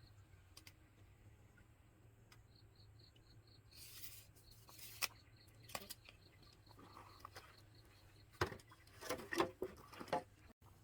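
Faint insect chirping as a steady run of soft high pulses. Over it, a short hiss about four seconds in, a few sharp clicks, and near the end a cluster of knocks and rubbing, like hands working with tools or material.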